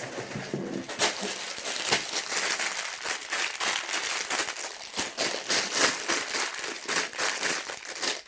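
Sealed plastic bags of LEGO pieces crinkling and rustling as they are handled, with frequent sharp clicks.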